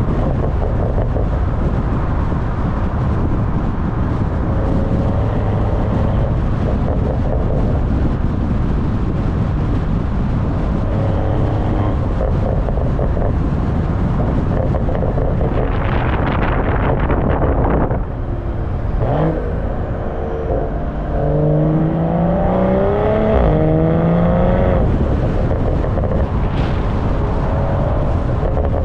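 BMW M340i's turbocharged B58 inline-six exhaust heard from behind the car while driving, under heavy wind buffeting on the microphone. A rush of sound about two-thirds of the way through drops away briefly, then the engine note climbs in pitch as the car pulls hard.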